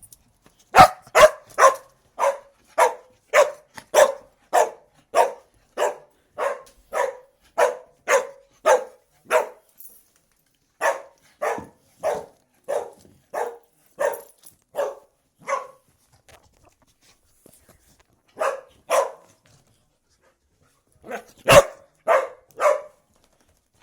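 A dog barking at its owner arriving home, in sharp, regular barks about two a second. It breaks off a few times for a second or more, then resumes with short runs of barks.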